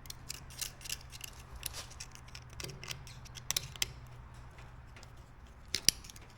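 Small sharp metal clicks and taps as steel pins and bushings are handled and fitted, with a louder click about six seconds in, over a steady low hum.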